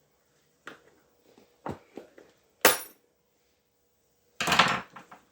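Shoe-repair hand tools knocking on the work, four or five sharp knocks with a ringing metallic clink as the loudest, then a louder noisy burst of about half a second near the end.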